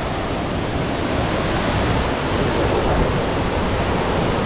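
Hurricane-force wind: a loud, steady rushing noise with a rough rumble of wind buffeting the microphone.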